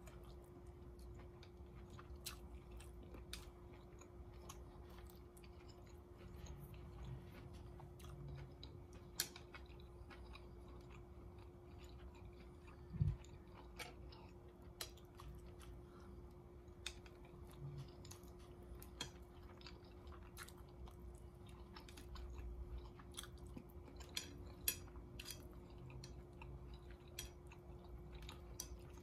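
A person chewing orange chicken and rice close to the microphone, with scattered light clicks of chopsticks against a plate and bowl and one louder knock about halfway through. A faint steady hum lies underneath.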